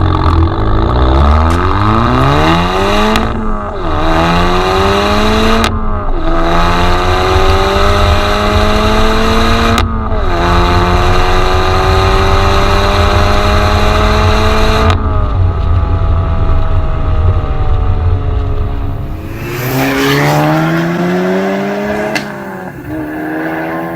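VW Golf 7 R's turbocharged four-cylinder on a Cende aftermarket exhaust, accelerating hard: the engine note climbs in each gear, with quick upshifts about 3, 6 and 10 seconds in, each gear held longer than the last. It lifts off about halfway through, then revs rise again briefly near the end.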